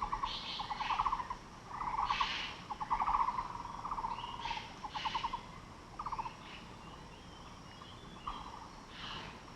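Maroon orioles calling: a string of short, rasping, rapidly pulsed calls, roughly one a second, with a quieter gap about two-thirds of the way through.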